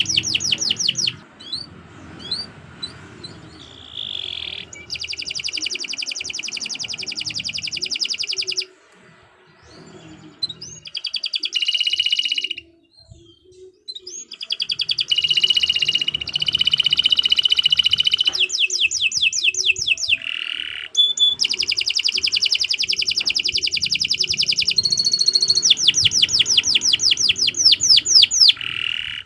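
Domestic canary singing a long, continuous song of rapid trills and rolls, fast repeated notes sweeping up and down, with a couple of brief pauses.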